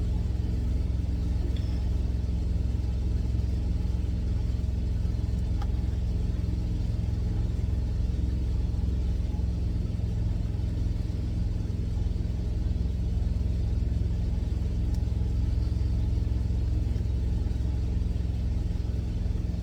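Semi truck's diesel engine idling: a steady, unchanging low drone.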